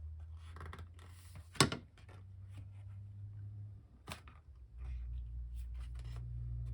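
Handling sounds from hole-poking and working a cardstock journal on a cutting mat: a sharp knock about a second and a half in, then another about four seconds in, with light ticks in between.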